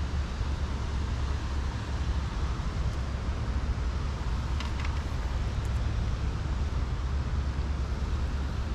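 Steady low outdoor rumble, with a couple of faint clicks about halfway through.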